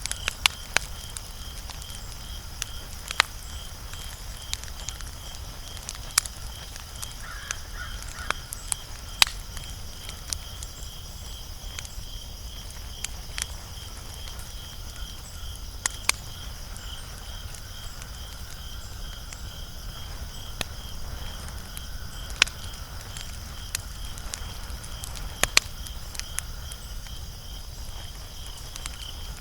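Wood fire crackling, with irregular sharp pops and snaps every second or two over a low hiss, and a steady high-pitched trill running underneath.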